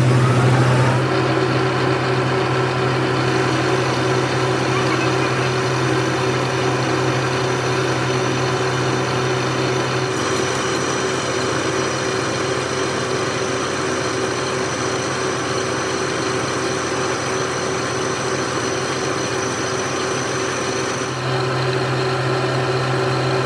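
Metal lathe running with a steady machine hum; its tone shifts slightly about a second in, again near the middle, and near the end.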